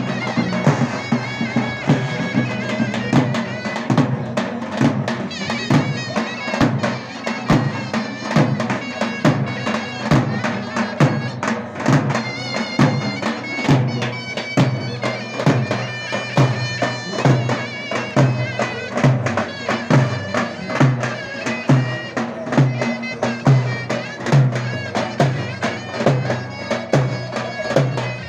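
Davul and zurna playing folk dance music: the shrill, reedy zurna carries the melody over a steady, regular beat on the davul bass drum.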